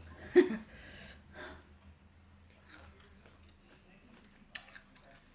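A person chewing food, with wet mouth noises and small clicks, and one short, louder sound about half a second in.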